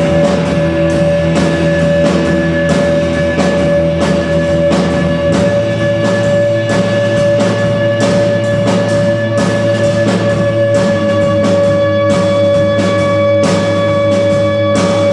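Live band playing an instrumental rock passage: drum kit and guitar, with a held note ringing over a bass line that shifts to a new note about five seconds in.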